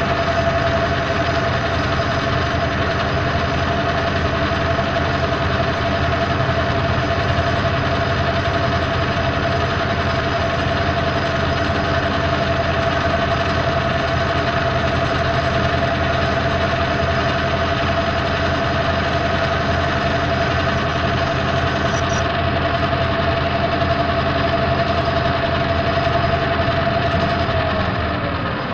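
Metal lathe running steadily with a constant whine over a mechanical hum, then slowing down near the end as it is switched off and spins down.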